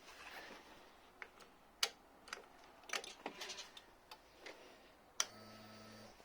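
Faint clicks and taps around a Kawasaki GTR 1400 motorcycle before it is started, then about five seconds in a sharper click and a steady electric hum lasting just under a second, typical of the ignition being switched on and the fuel pump priming.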